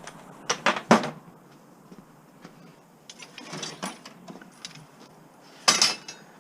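Scrap metal being handled and worked by hand: a few sharp knocks, then scattered clattering and scraping, with the loudest clank near the end.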